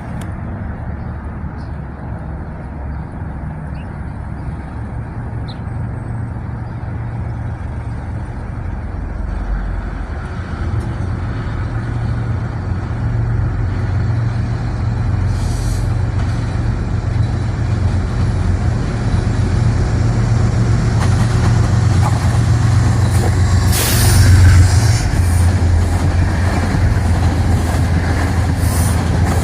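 Metro-North train approaching, its low, steady drone growing louder. Short bursts of hiss come about halfway through and again near the end, where it is loudest.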